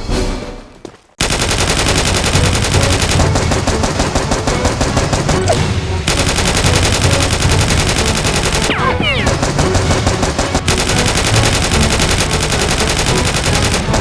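Rapid automatic gunfire sound effects, continuous bursts of shots that start about a second in as the music fades out.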